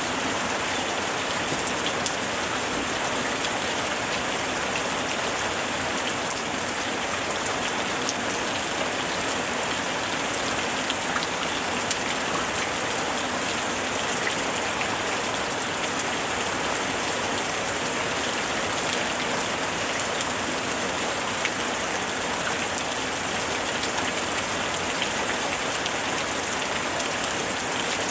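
Steady rain falling, with many small drops pattering on surfaces and no letup.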